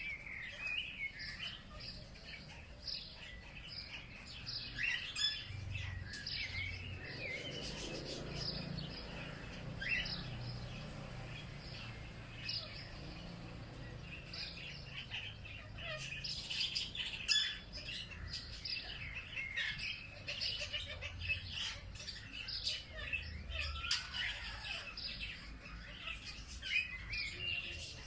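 Several songbirds chirping and singing, with many short, overlapping calls throughout, over a faint low background rumble.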